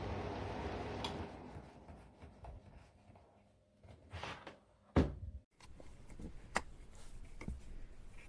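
A portable electric fan heater's fan hum dies away within the first couple of seconds. It is followed by a few separate clicks and knocks from the unit being handled, the loudest about five seconds in.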